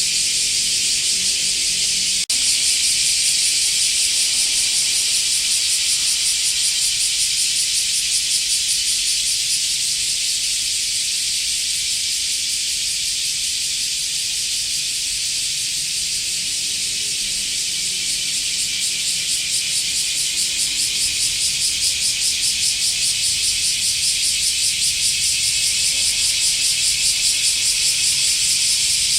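Cicada song: a loud, continuous, high-pitched buzz with a fast pulsing texture, broken for an instant about two seconds in.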